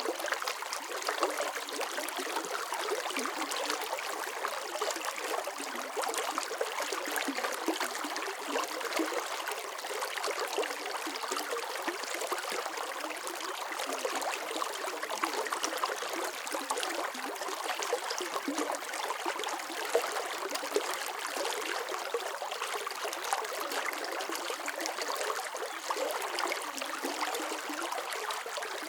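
Running water flowing and trickling steadily, with fine splashing and bubbling and no deep rumble.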